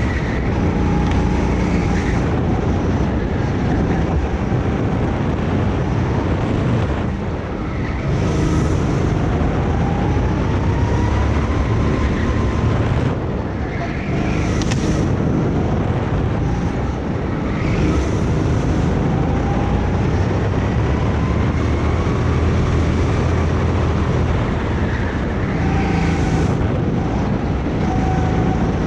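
Go-kart engine running hard through a lap, its pitch climbing steadily along the straights and dropping sharply under braking about seven and thirteen seconds in, with wind on the microphone.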